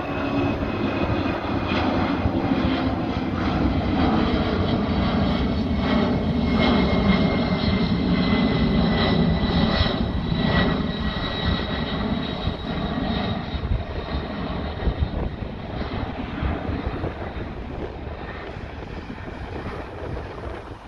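A Boeing 757-200 freighter's twin Pratt & Whitney PW2040 turbofans at takeoff power, a loud roar with high whining tones that drift slightly down in pitch. The roar is loudest about seven to ten seconds in, then fades as the jet climbs away.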